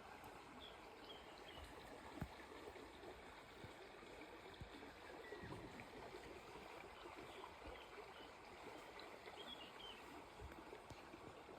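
Faint outdoor ambience: a soft steady hiss, with a few short high chirps and a single small click about two seconds in.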